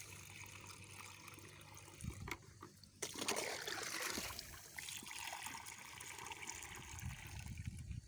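Water running and trickling into a sprayer tank of mixed fungicide, faint at first and louder from about three seconds in.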